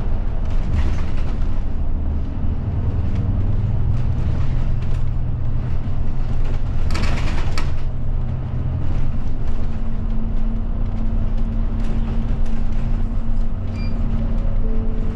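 Inside a route bus's cabin: the diesel engine running and road noise as the bus drives. The engine note shifts about halfway through, and there is a brief louder rush of noise about seven seconds in.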